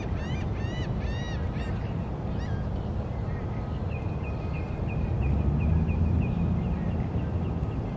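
Birds calling: a rapid run of harsh, arching calls, about four or five a second, that stops about two seconds in, then a fast series of short chirps from about three seconds on. Underneath is a low rumble that swells around the middle.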